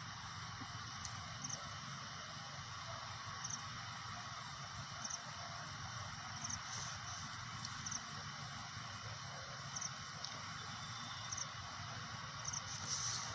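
Short high insect chirps, one every second or two, over a steady background hiss.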